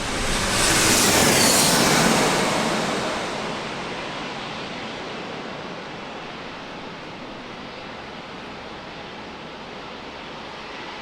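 A jet airliner passing close by: a loud rushing engine noise swells to a peak within the first couple of seconds, with a falling whine, then eases off to a steady, more distant rush.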